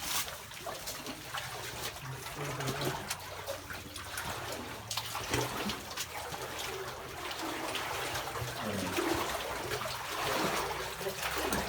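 People wading through knee-deep water and thick mud in a flooded mine tunnel: irregular splashing and sloshing with each step, over running water.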